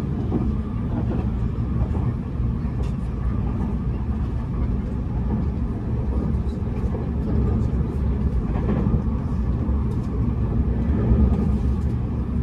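Tobu Spacia X (N100 series) limited-express train running at speed, heard from inside the car: a steady low rumble of wheels on rail, with occasional faint clicks.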